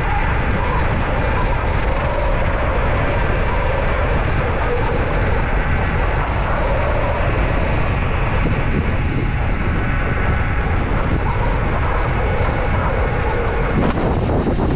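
Steady loud wind rush buffeting a mountain bike rider's action camera at speed, with the bike's ride noise underneath and a short louder burst near the end.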